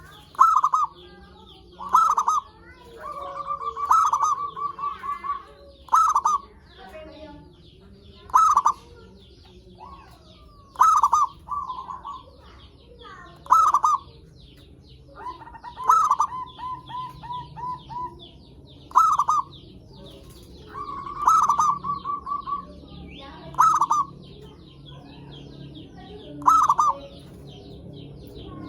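Zebra dove (perkutut) cooing: a loud call note every two to three seconds, several of them running on into a rapid string of short coos at the same pitch. Other small birds chirp faintly and high behind it.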